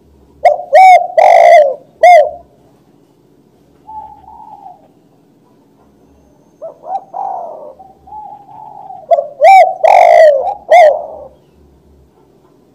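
Spotted dove (tekukur) cooing: two loud phrases of several coos about nine seconds apart, with softer coos between them. The loudest coos are clipped and distorted.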